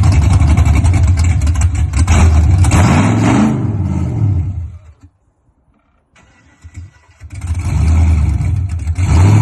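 LS-swapped V8 with a BTR stage 3 cam running loud in a 1996 Impala SS, blipped once about three seconds in so the revs rise and fall. It then dies away to near silence for about a second and a half before the engine sound comes back and builds up again.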